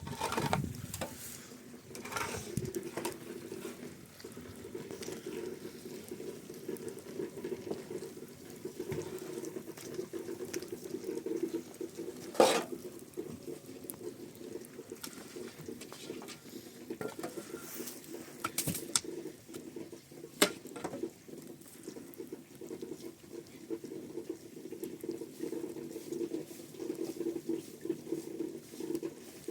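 Steady patter of water with scattered sharp knocks, the loudest about twelve seconds in.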